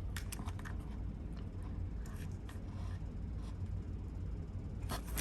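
Faint light clicks and rustling of small packaged nail supplies being handled, over a low steady hum, with a slightly sharper click near the end.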